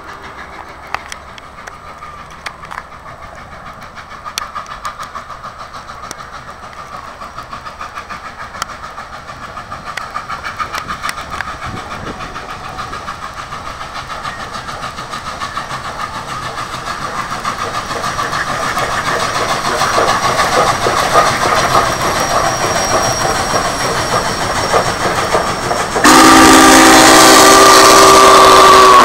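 Union Pacific 844 steam train running past, its wheels clicking steadily over the rail joints and growing louder. Near the end the locomotive's steam whistle blows a loud, multi-note chord.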